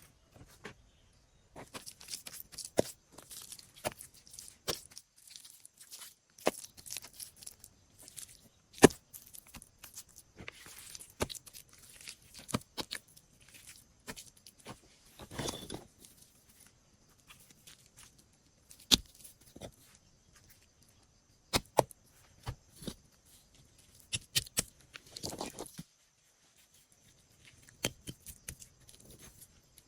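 Irregular cracks, snaps and rustles of dry material being handled or torn, with scattered sharp clicks and short pauses between bursts.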